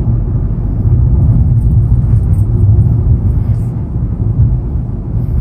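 Steady low rumble of vehicle noise heard from inside a car, with no clear rise or fall.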